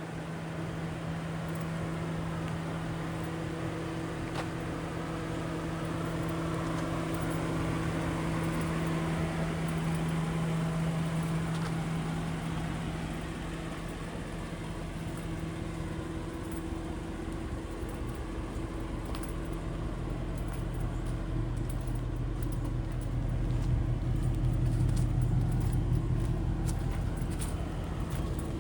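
2011 Ford Mustang GT's 5.0-litre Coyote V8 idling steadily. It grows louder, with more low rumble, a little past two-thirds of the way through.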